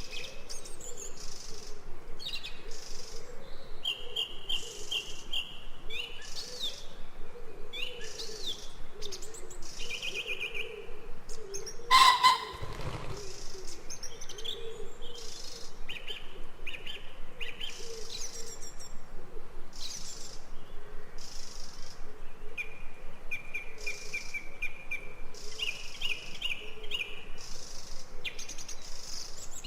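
Jungle ambience: many birds chirping and calling, with short repeated trills and whistles over a faint steady background. About twelve seconds in, one sudden, much louder sound stands out.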